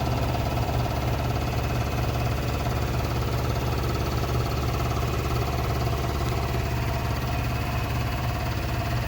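Detroit Diesel Series 60 14-litre inline-six diesel engine of a semi truck, idling steadily.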